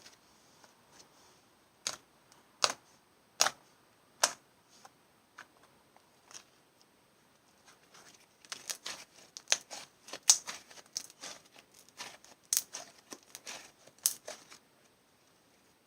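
Clear slime full of trapped air bubbles being squeezed and pressed by hand, giving sharp pops and clicks: four single pops a little under a second apart, then after a pause a dense run of crackling pops lasting about six seconds.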